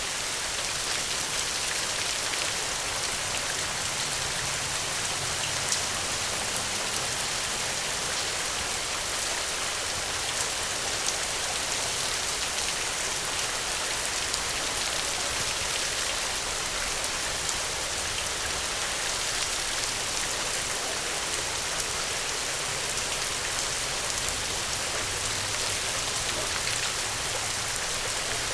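Steady rain falling, a dense even hiss with scattered individual drop ticks and a faint low rumble now and then.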